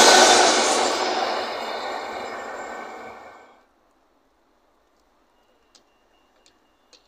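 LNER Class 91 electric locomotive 91106 and its InterCity 225 coaches passing through at speed: a loud rush of wheels and air that fades away over about three and a half seconds. A few faint clicks follow near the end.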